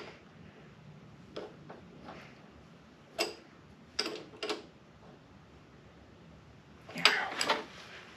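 Hand tools and small metal parts being handled, giving scattered light clicks and knocks a second or so apart, with a louder clatter near the end.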